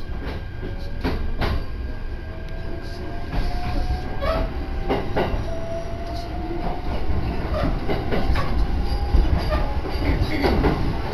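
Electric local train pulling away from a station, heard from inside the carriage: a steady low rumble, with sharp wheel clacks over rail joints now and then and a faint motor whine that rises in pitch as the train gathers speed.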